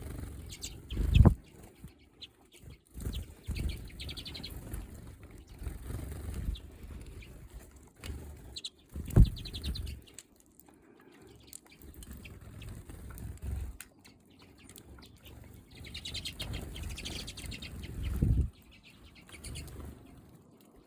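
Small finches fluttering in to land and feed from a hand, wings beating close to the microphone, with short high chirps and twitters now and then. Three loud low thumps stand out, about a second in, about nine seconds in and near the end.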